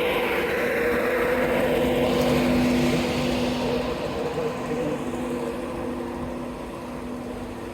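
A train running past and pulling away, with a steady hum of several tones over rushing running noise that grows fainter after about three seconds.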